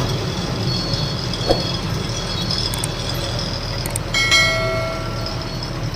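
Steady low rumble of a goods truck's diesel engine and cab on the move, heard from inside the cab. About four seconds in, a brief higher tone sounds for about a second.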